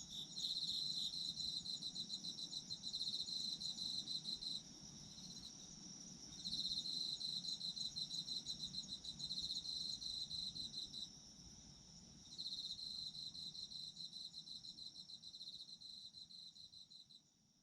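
Autumn insects singing: a cricket trilling in rapid pulses in three long bouts of about four to five seconds each, over a steady high ringing from other insects. It all fades away near the end.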